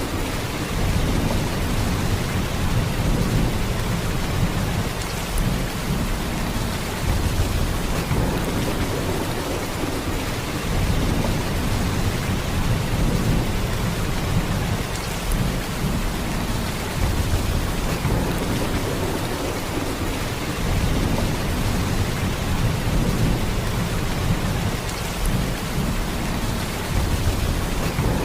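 Heavy rain, a steady downpour hissing across the whole range, with a deep low rumble that swells and eases every few seconds.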